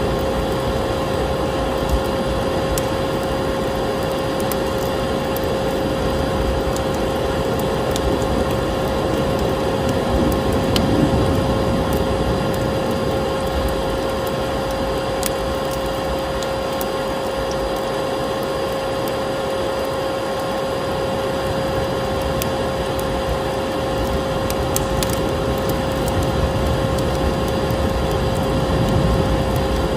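Electric vacuum cleaner running steadily with a constant hum, layered with a wood fire crackling and popping in a fireplace.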